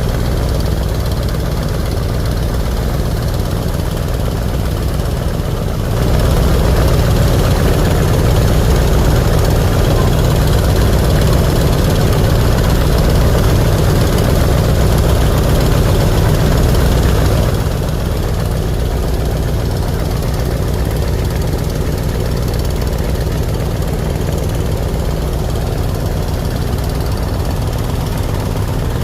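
Diesel engine of a river passenger launch running steadily with a heavy low rumble; it grows louder about six seconds in and drops back about twelve seconds later.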